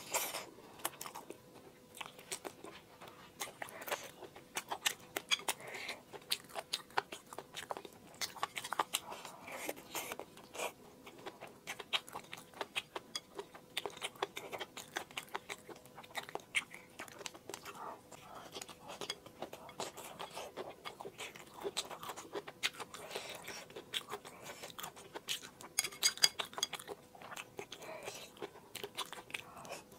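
Close-miked chewing and biting of food: a dense run of small mouth clicks and smacks, with a louder cluster of clicks near the end.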